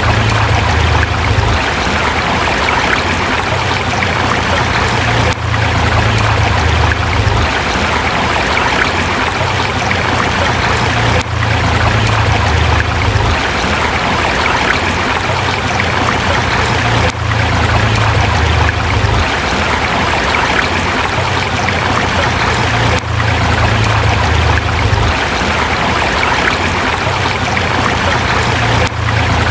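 A river in a forest running over rocks: a steady rushing of water with a low rumble underneath. The sound drops out briefly about every six seconds.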